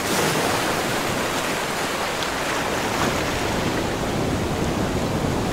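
Pacific surf breaking and washing along a rocky shore: a steady, dense rush of waves.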